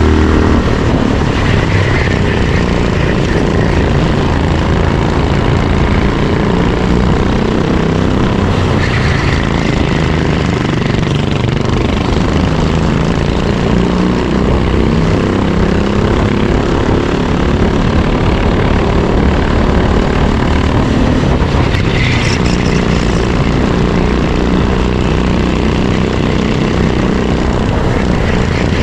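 Racing kart's engine recorded onboard at speed, running continuously with its note shifting up and down as the kart accelerates and slows through the corners.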